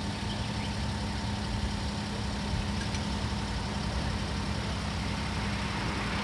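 Ferry's engine running steadily: a constant low drone with a steady hum.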